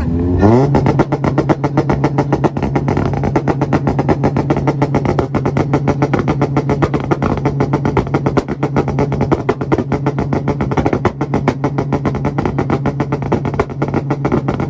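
A tuned car engine revs up and is held on its two-step launch limiter, sitting at one steady pitch while the ignition cut makes a rapid, continuous string of pops and crackles.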